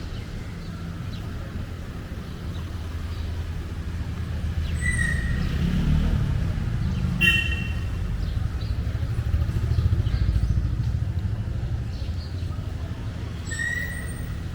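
Street traffic: a low vehicle engine rumble that swells as vehicles pass close, about six seconds in and again around ten seconds, with a sharp click and a few short, high beeps.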